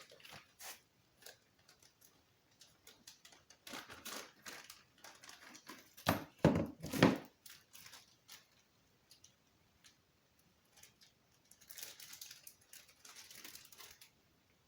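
Packaging being handled and torn open: crinkling plastic and cardboard rustling, with scattered small clicks and knocks. The loudest rustle comes about six to seven seconds in.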